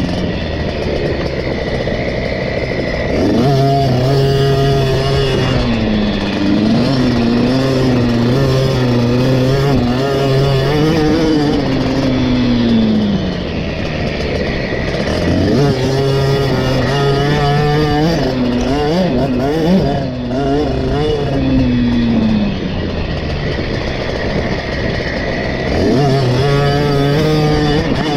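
KTM 50 SX's small two-stroke single-cylinder engine, heard onboard, revving hard through a motocross lap. The pitch climbs, holds high, then drops off as the throttle closes, several times over.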